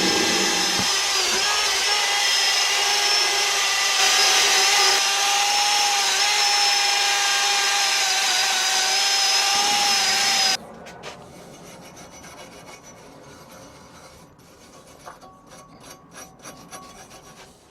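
Motor-driven wire brush scouring a freshly forged steel piece: a steady scratchy rasp over a constant motor whine, cutting off suddenly about ten seconds in, followed by faint light clicks of handling.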